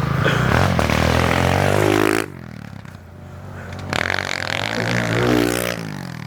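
Pit bike engine running and revving, loud for about two seconds with its pitch falling, then dropping away suddenly; it swells again with a rise and fall in pitch before fading near the end.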